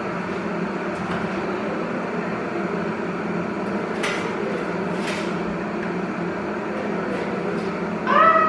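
Steady hum of a kitchen oven and its fan, with two short clicks about four and five seconds in.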